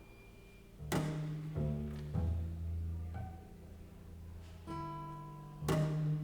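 Contemporary chamber music for clarinet, violin, double bass, guitar and piano. After a fading note, a sharp attack about a second in sets off sustained low string notes with further entries, and another sharp attack comes near the end.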